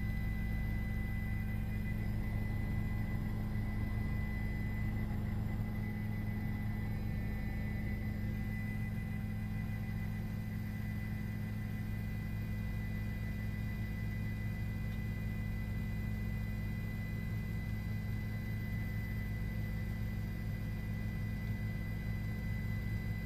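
Steady low engine hum with a constant high-pitched tone over it, unchanging throughout: cabin noise of the pursuing police vehicle or aircraft.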